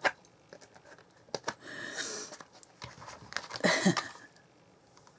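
Card stock rustling and tapping as it is handled on the craft table, with a brief voice sound about four seconds in.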